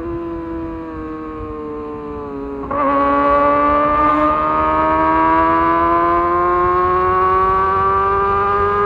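Kawasaki ZX25R's inline-four engine whining at high revs, the pitch sagging slightly on a light throttle. About three seconds in, the throttle opens: the note gets louder and climbs slowly and steadily as the bike pulls in a high gear.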